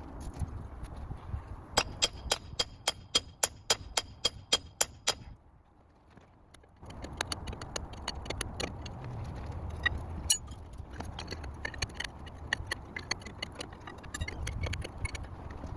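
Hammer blows on steel Sherman tank track, about a dozen quick strikes at three to four a second, each with a metallic ring. After a short quiet gap come lighter, rapid metallic clicks and clanks over a low rumble.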